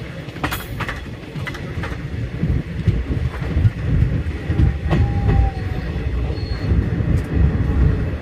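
Passenger train running along the track, heard from an open coach doorway: a steady low rumble of wheels on the rails with clattering from the running gear, and a brief thin squeal about five seconds in.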